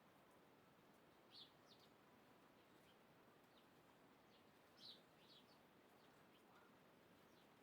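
Faint bird chirps: a few short, high calls in small clusters, the clearest about a second and a half in and about five seconds in, over a faint steady hiss.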